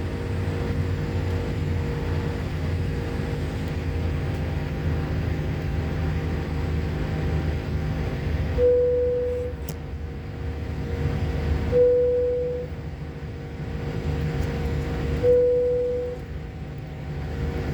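Steady low rumble of a jet airliner's cabin while it taxis before takeoff. From about halfway, a short steady tone of about a second repeats about every three seconds, each with a brief rise in loudness.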